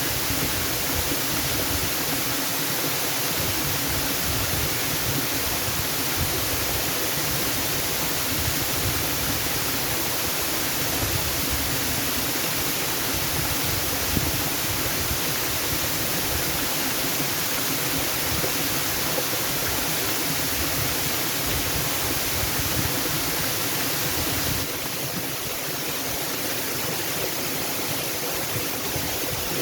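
Waterfall water rushing in a steady, even roar of noise. About 25 seconds in it shifts abruptly to a slightly quieter rush of water.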